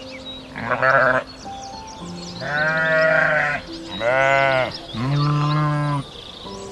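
Sheep bleating four times, each call about a second long, over gentle background music.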